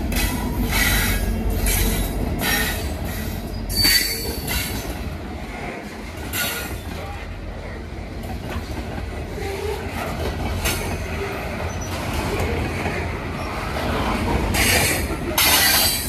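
Freight train of covered grain hopper cars rolling past: a steady low rumble of steel wheels on rail, with high-pitched wheel squeal that screeches again and again, loudest about four seconds in and near the end.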